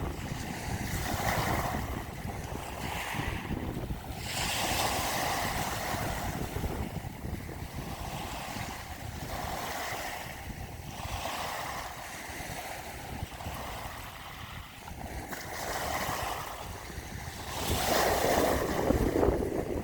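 Ocean waves washing in, a rushing surf that swells and ebbs every few seconds, with the biggest surge near the end.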